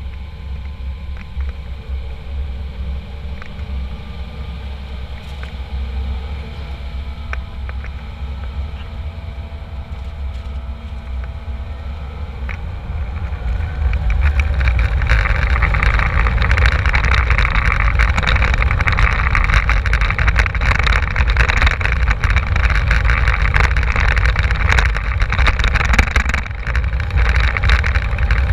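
Jet airliner cabin noise: a steady low engine rumble that, about halfway through, turns abruptly louder with a strong hiss and fast rattling, then holds at that level.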